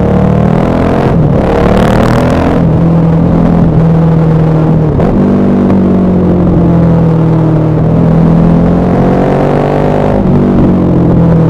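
KTM 1190 Adventure R's LC8 V-twin engine and exhaust pulling through the gears, the revs climbing steadily and then dropping sharply at gear changes, three times.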